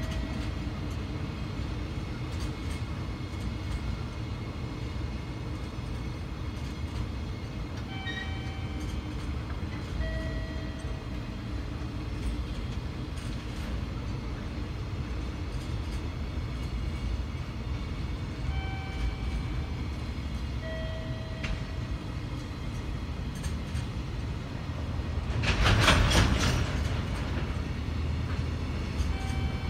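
Container freight train's wagons rolling past at low speed: a steady low rumble of wheels on rails, with short high squeals now and then and a loud rushing hiss about 26 seconds in.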